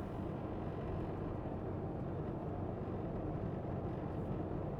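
Semi truck's diesel engine running steadily with road rumble, an even low drone that holds the same level throughout.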